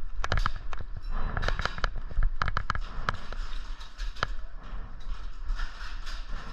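Airsoft guns firing in irregular single shots and short strings, sharp pops with a few closer and louder than others, over a steady low rumble of wind or handling on the microphone.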